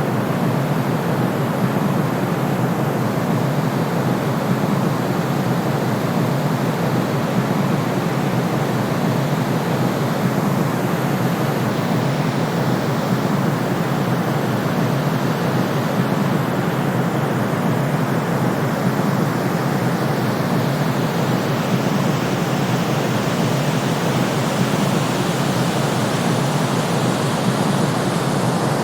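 Continuous white-noise track for baby sleep: an even, unchanging rushing hiss, fuller in the low end than in the treble.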